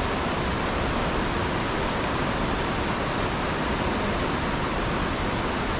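Steady, even rush of water falling and running in a river cascade, with no breaks or single events.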